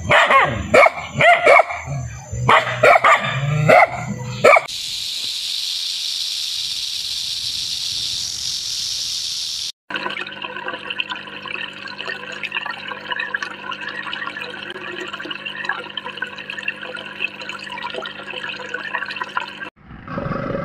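A dog barking repeatedly, several sharp barks over about four and a half seconds. Then a steady hiss for about five seconds, followed by a steady, busy noise over a constant low hum.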